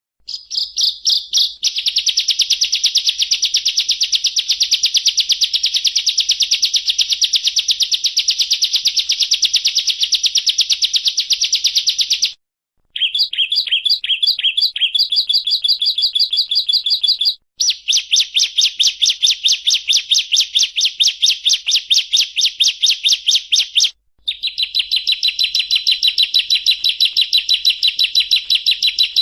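A ciblek (prinia) sings long, rapid, buzzing trills of fast-repeated high notes, each run lasting several seconds. The trills are broken by brief pauses three times. This is the 'ngebren', the drill-like trill prized in contest songbirds.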